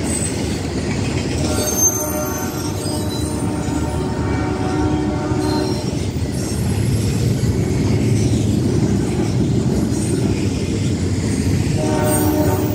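Double-stack intermodal freight train running past, its cars rumbling and clattering over the rails. Over it, the approaching locomotive sounds its multi-tone air horn: one long blast of about four seconds, then another beginning near the end.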